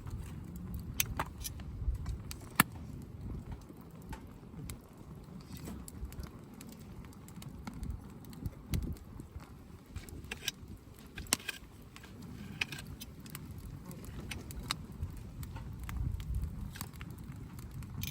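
Wood campfire crackling: scattered sharp pops and snaps, the loudest about two and a half seconds in, over a low rumble.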